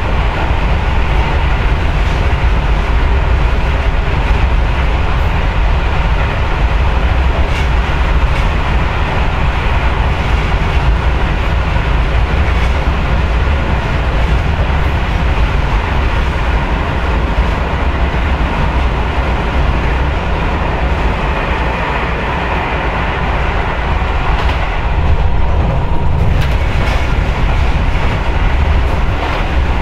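Yagan Railway 6050 series electric train running, heard from inside the car: a steady rumble of wheels on rail with a faint motor hum and a few light rail-joint clicks.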